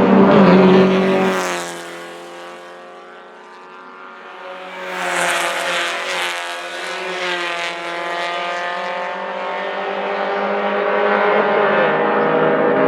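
Race car engines on a track. A loud car starts abruptly and fades away over about two seconds. About five seconds in, another car passes with its engine note falling, and after that an engine note climbs slowly and grows louder toward the end.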